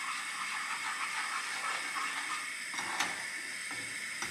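Eggs frying in a little oil in a pan, a steady sizzle, with a couple of faint clicks of a utensil about three seconds in and near the end.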